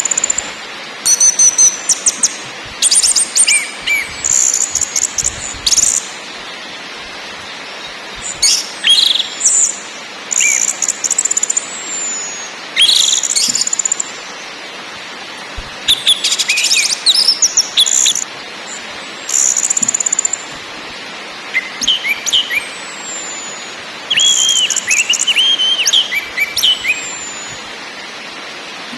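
Orange-headed thrush (anis merah) singing and calling in short, high-pitched phrases with brief pauses between them, some ending in a falling whistle. In the last few seconds the phrases drop lower, with quick rising and falling notes.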